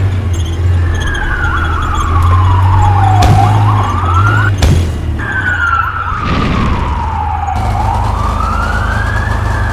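A siren wailing slowly: its pitch falls and rises again about once every four seconds, over a steady low hum. A brief knock breaks in about halfway through.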